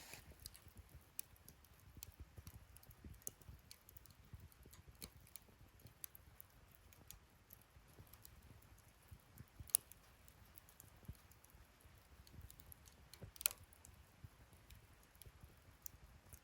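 Wood fire burning in a fire-pit stand, crackling softly with faint scattered ticks and two louder pops in the second half.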